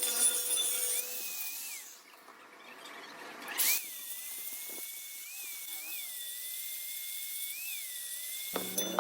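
High-pitched whine of a small power tool, wavering up and down in pitch, that cuts off near the end, with one short burst of noise about three and a half seconds in.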